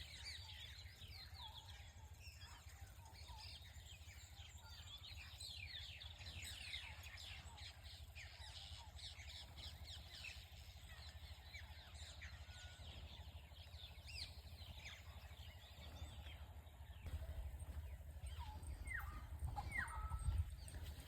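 Many small birds singing together, a dense stream of short falling chirps that thins out in the later part, with a few louder calls near the end. A steady low rumble runs underneath.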